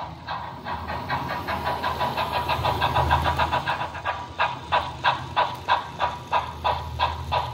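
Steam-locomotive chuffing from the sound decoder of a Märklin H0 model of the DB class 10, played through the model's small loudspeaker, over a low running hum. The chuffs quicken and grow louder toward the middle, then settle back to about three a second.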